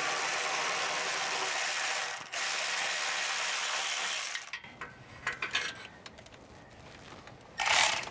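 A ratchet wrench working loose the 15 mm exhaust flange bolts: two runs of fast ratchet clicking with a short pause between them, then a few light clinks of metal and a brief loud rattle near the end.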